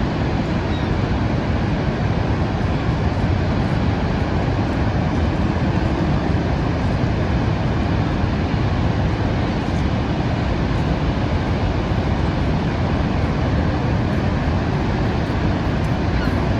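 Niagara Falls' water pouring over the falls: a loud, steady rush of falling water, heaviest in the low rumble, with no breaks or changes.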